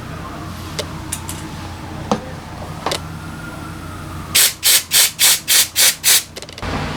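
Seven short, loud hissing blasts of pressurised spray, about three a second, starting a little past halfway, used to clean the carburetor. Earlier there are a few light clicks of small parts being handled, over a steady low hum.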